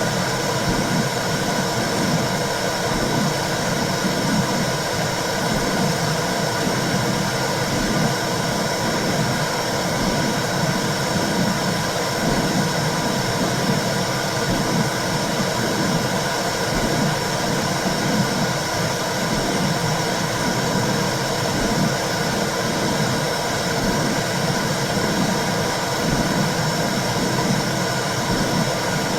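Recorded womb sound: a steady rushing whoosh with a low, regular pulsing throughout.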